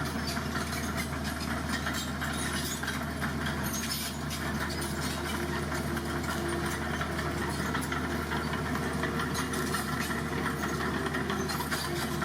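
Heavy construction vehicle's diesel engine running steadily at low revs, with a continuous fine clatter over the hum.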